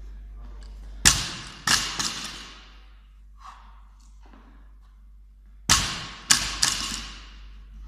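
A loaded barbell with bumper plates dropped onto the floor twice, about four and a half seconds apart. Each drop is a loud hit followed by two smaller bounces and a clatter of the plates.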